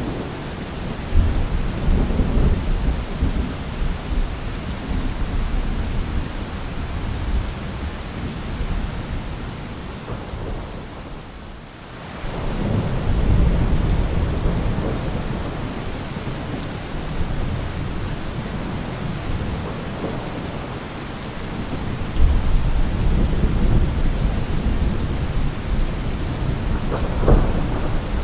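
Thunderstorm: steady heavy rain with rolling thunder, deep rumbles swelling up about a second in, again near the middle and again about two-thirds through, with a sharper crack near the end.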